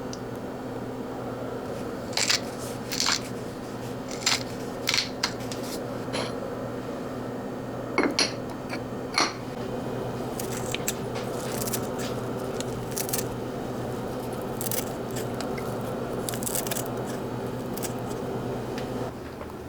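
Kitchen handling sounds: scattered sharp clicks and light knocks of small utensils over a steady low hum, the clicks strongest in the first half and fainter, quicker ticks later.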